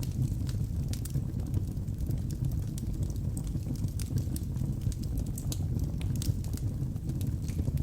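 Wood fire of burning logs crackling, with many small irregular pops and snaps over a steady low rumble of the flames.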